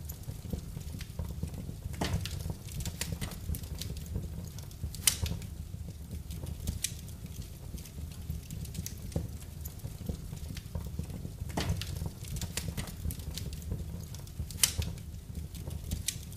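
Wood fire in a fireplace crackling irregularly over a low steady rumble, with several louder sharp pops.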